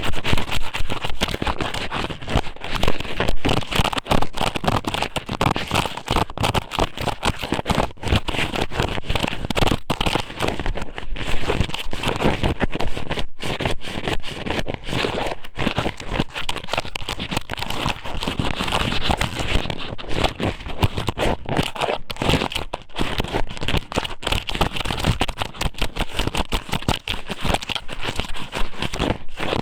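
Strips of raw squid sōmen pushed and worked inside an ear microphone. They give dense crackling, full of sharp clicks, right at the mic, with no letup.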